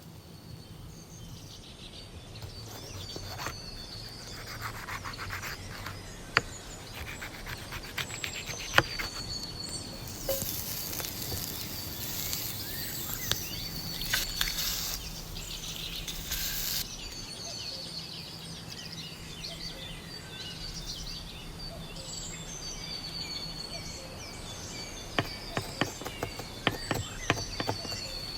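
Birds chirping and calling outdoors in repeated short whistled notes, with scattered sharp clicks and knocks. A steady hiss comes in midway and runs for about six seconds.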